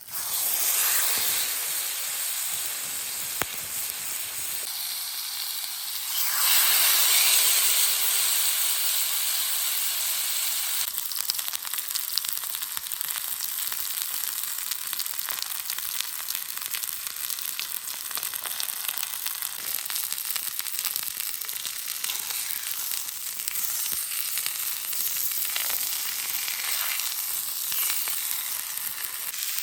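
Food sizzling on a red-hot cooking stone. The sizzle swells louder about six seconds in, eases after a few seconds, then carries on steadily with small pops.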